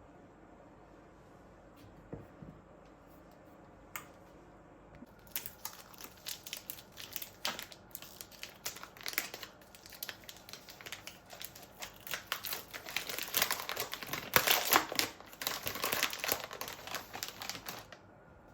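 Packaging crinkling and crackling as it is handled. It begins about five seconds in, is loudest in the last few seconds and stops suddenly near the end.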